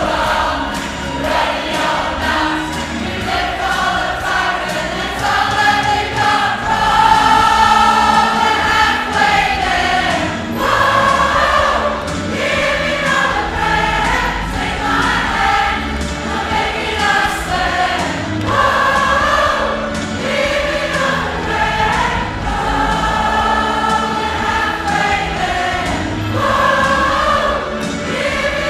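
Choir singing a song in concert, with many voices holding long notes together.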